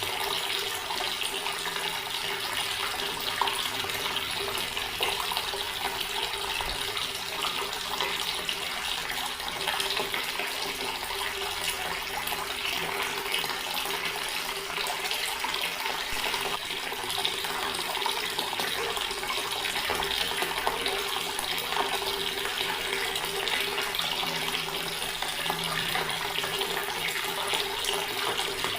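Water running steadily from a tap and splashing into a stone basin, a continuous even flow.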